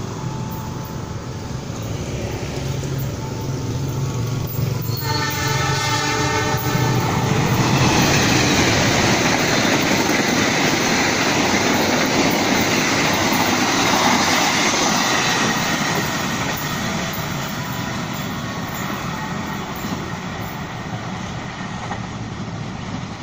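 A fast diesel-hauled passenger train approaching, its locomotive's engine drone building, then a horn blast of about two seconds some five seconds in. The train then rushes past, the loud noise of the carriages' wheels on the rails peaking and slowly fading away.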